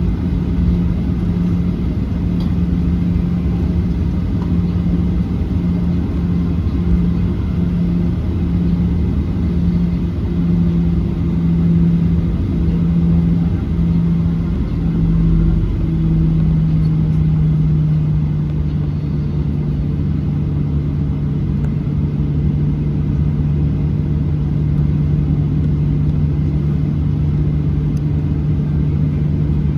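Boeing 737-800's CFM56-7B jet engines heard inside the cabin: a steady low hum over cabin rumble. The hum pulses in a slow beat that quickens and then merges into one steady tone about halfway through, as the two engines' speeds come together.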